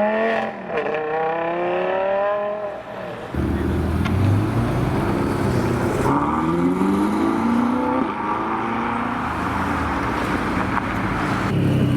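Supercar engines accelerating hard as cars pull away, their pitch rising in long pulls through the gears. A deeper, lower engine rumble takes over about three seconds in, with another rising rev partway through and again near the end.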